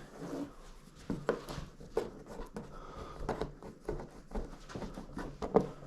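A plastic trim tool scraping and tapping along the edges of a car door card, pressing freshly glued vinyl down onto its fiberboard backing: irregular soft clicks and scrapes.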